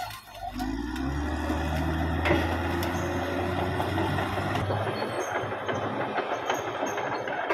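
Caterpillar D6R XL crawler bulldozer's diesel engine running under load, its note dipping briefly just after the start and then picking up again, with clatter from the steel tracks.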